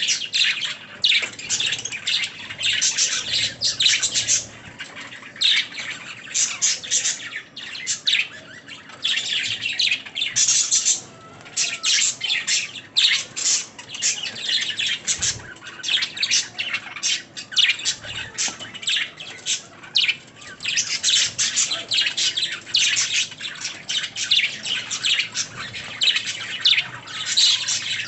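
Budgerigars chirping and warbling continuously, a dense run of quick high chirps with short breaks and no pause.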